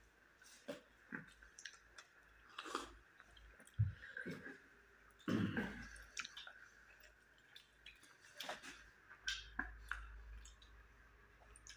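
People chewing a mouthful of moringa close to the microphone: scattered wet mouth clicks and lip smacks, with a few louder smacks about four and five and a half seconds in.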